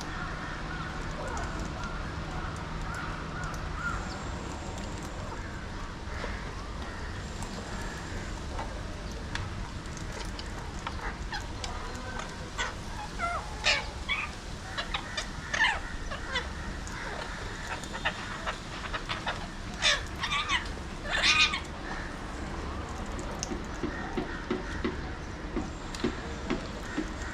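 Alexandrine parakeets giving short, harsh screeching calls in scattered bursts, loudest around the middle and about two-thirds of the way through, over a steady low background hum.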